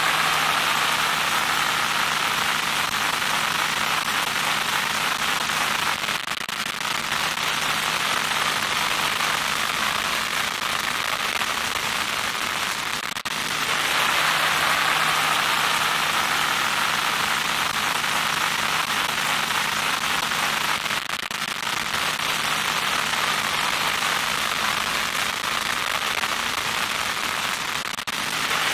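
Loud, steady static hiss with a low hum beneath it, dipping briefly about every seven seconds as the noise loops.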